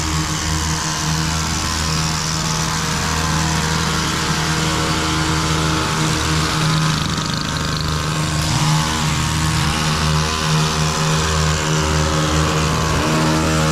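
A small engine running steadily under a dense hiss, its pitch dipping briefly a couple of times.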